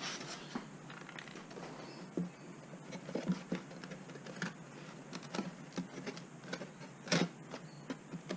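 Light irregular clicks, taps and scratches of a Depron foam sheet being handled and pressed against a foam model hull as it is test-fitted, with a sharper knock about seven seconds in.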